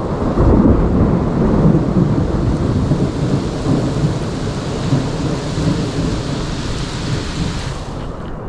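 Thunder rumbling over heavy rain: a deep rumble that swells in the first couple of seconds and slowly dies away, under a steady rain hiss that cuts off suddenly near the end.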